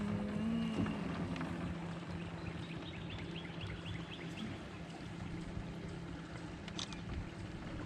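Birds calling over a steady low hum, with a rapid trill of about ten quick high notes in the middle and a single sharp click near the end.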